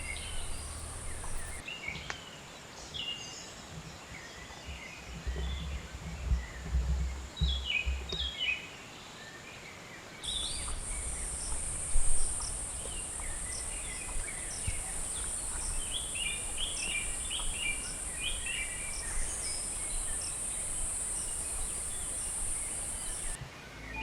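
Forest ambience: birds chirping and calling throughout, over a steady high-pitched insect drone. The drone stops about two seconds in, comes back about ten seconds in, and cuts off near the end. There is some low rumbling a few seconds in and a short bump about twelve seconds in.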